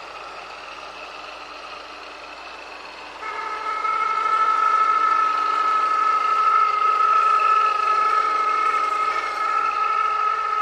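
Honda S2000 engine running with a steady high whine and whirring that gets much louder about three seconds in. The owner took it for a serpentine belt fault, but it is still there with a new auto tensioner and pulley.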